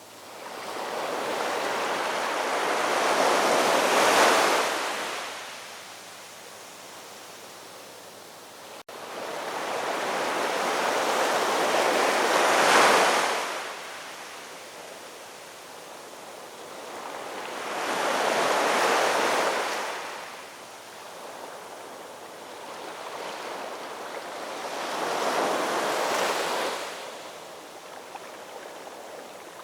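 Ocean waves breaking and washing ashore: four surges that build and fall away roughly every seven seconds, with a softer steady wash between them.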